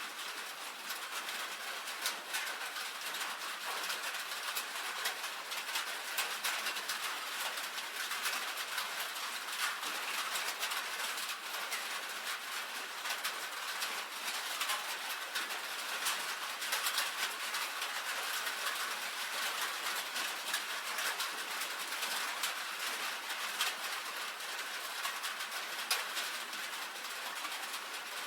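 Steady rain on a tin roof: a dense, even patter of countless drops ticking on the metal.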